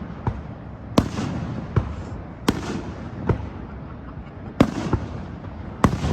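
Fireworks bursting overhead: about six sharp bangs at uneven intervals, each followed by a rolling echo, over a steady low background rumble. The loudest bangs come past the middle and near the end.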